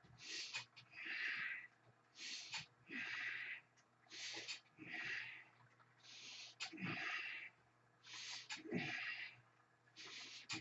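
A person breathing hard and rhythmically through a repeated exercise movement, a forceful in-and-out breath pair about every two seconds. Faint low knocks come with some of the breaths.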